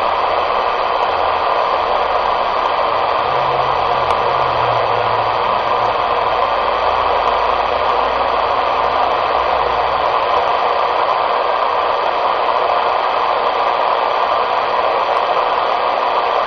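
CB radio speaker hissing with steady receive static, the squelch open on an empty channel.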